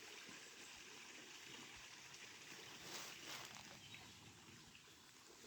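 Faint forest ambience, close to silence: a soft hiss of running water with a few faint, short bird chirps.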